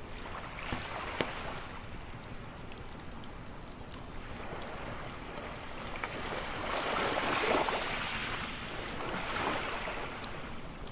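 Ocean waves washing onto a shore, swelling to their loudest a little past halfway and again near the end, with a few sharp pops from a crackling wood campfire.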